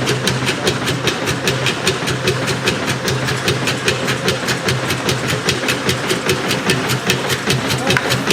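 1902 Fowler steam traction engine running steadily, with an even beat of about five strokes a second over a steady hum.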